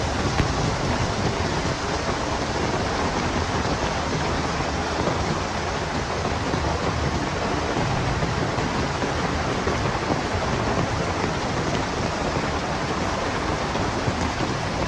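Heavy rain falling steadily in wind: a dense, even hiss with a strong low rumble underneath, unbroken throughout.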